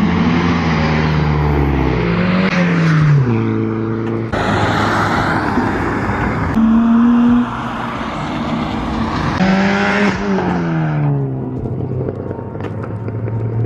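Car engines revving and accelerating away one after another. Their pitch climbs and drops again and again through gear changes, and one engine holds a steady rev for about a second midway.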